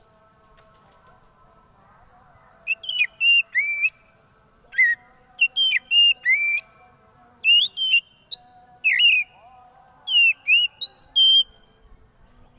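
Oriental magpie-robin (kacer) giving loud whistled calls in quick phrases of rising and falling notes, starting about three seconds in. It is the agitated, noisy call used as a lure to draw in other magpie-robins.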